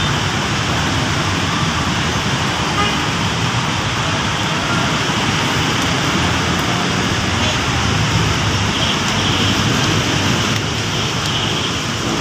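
Steady road traffic noise from a busy city avenue, an even rush of vehicles passing.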